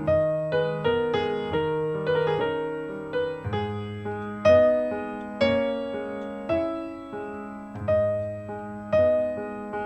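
Slow solo piano music: struck notes and chords, each left to ring and fade before the next.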